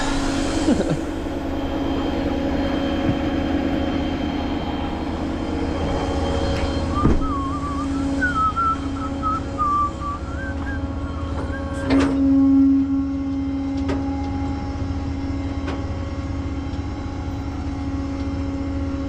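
Tow truck engine running with a steady drone as the truck moves slowly. A couple of sharp knocks and a brief warbling squeal are heard about eight seconds in.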